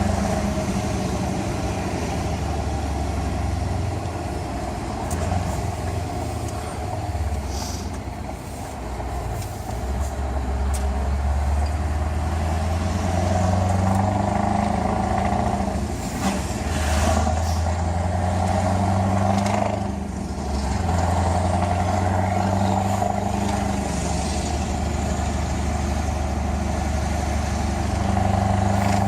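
Scania R500 V8 truck engine with an open exhaust pipe running, its engine note stepping up and down in pitch and loudness several times.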